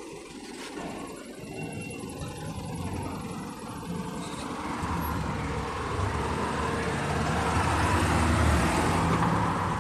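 Road traffic noise from a large vehicle: a low rumble with tyre and road hiss that swells steadily from about halfway through and is loudest near the end.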